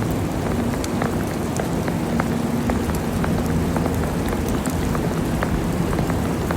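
Steady rain-like hiss of precipitation with many scattered drip and tick sounds, over a faint low steady hum.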